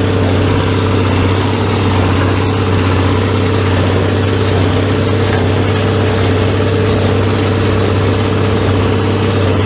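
Farm tractor engine running at a steady speed, with a steady high whine above it.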